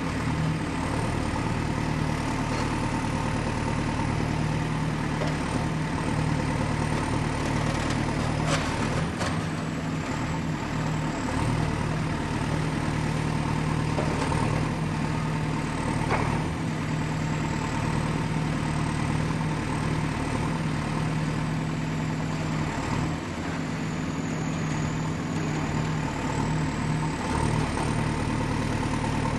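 Excavator's diesel engine running steadily, with a thin high whine that drifts up and down in pitch. There are a couple of brief knocks, one about eight seconds in and another about sixteen seconds in.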